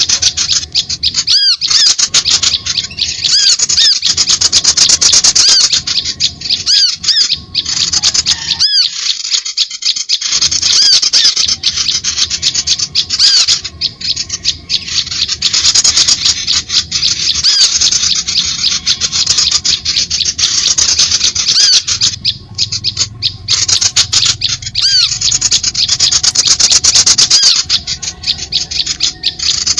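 Loud, dense bird chirping from a bird-lure recording: rapid runs of short, high chirps and squeaky calls follow one another with only brief breaks.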